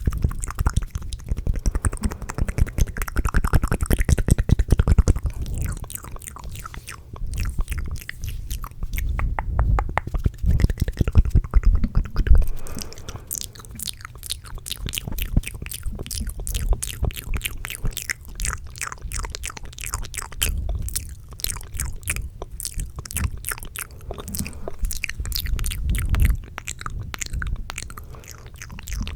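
Fast, aggressive ASMR mouth sounds: a dense, rapid stream of clicks and smacks from the mouth and tongue, louder in stretches.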